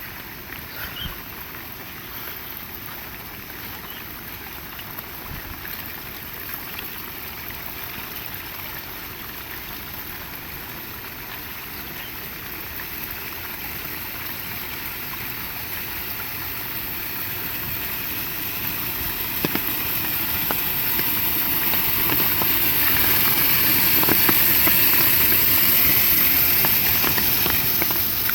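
Heavy rain pouring down in a steady hiss that swells much louder over the second half, loudest a few seconds before the end.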